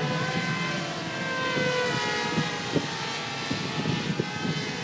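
Several electric RC combat planes flying at full throttle together, their motors and propellers whining at several pitches that drift up and down as the planes pass.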